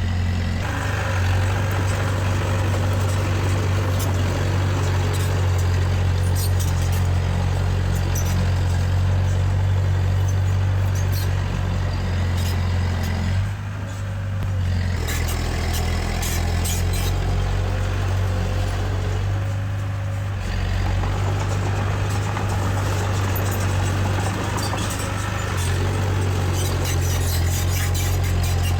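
Diesel engine of heavy earthmoving machinery running steadily, with a strong low hum that eases briefly about a third of the way in and again near the middle. Scattered short metallic clicks and squeaks sound over it.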